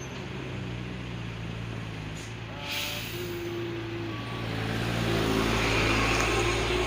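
Heavy road vehicle's engine running steadily, getting louder about five seconds in, with a few short higher tones over it.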